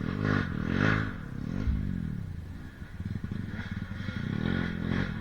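Off-road trail motorcycle engine revving up and dropping back in several quick blips.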